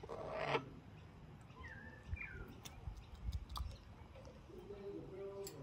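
Quiet bird sounds: a few soft chirps, a low held call near the end, and scattered light clicks. A short noisy rasp at the very start is the loudest sound.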